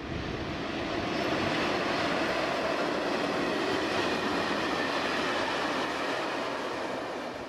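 A train rolling past: a steady rolling noise that swells over the first second and eases off near the end.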